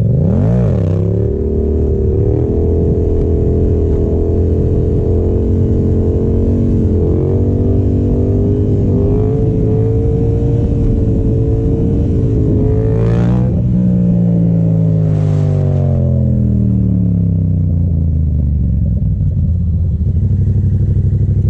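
Yamaha FZ-07's 689 cc parallel-twin engine under way: a quick rev up and back at the start, then held at fairly steady revs for a long stretch, before a brief rise and a slow, steady fall in revs over the last several seconds.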